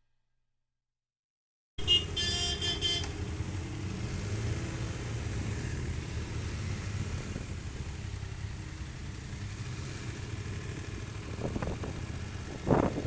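BMW F900XR motorcycle riding along, its parallel-twin engine and the wind making a steady low rumble that cuts in suddenly about two seconds in. A vehicle horn toots briefly just as the sound begins.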